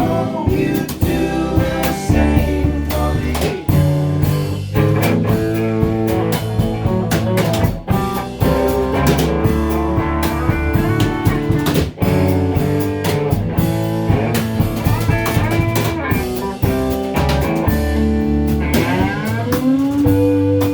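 Live band playing an instrumental break: guitar lead over bass and drum kit in a bluesy rock groove, with notes sliding up near the end.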